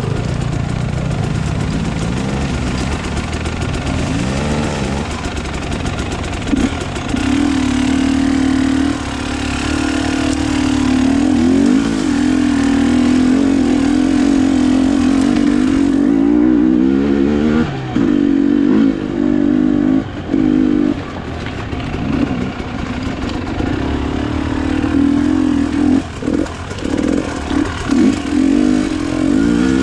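Enduro motorcycle engine running under throttle while riding a trail, its pitch rising and falling with the throttle. In the second half the throttle is chopped and reopened several times in quick succession.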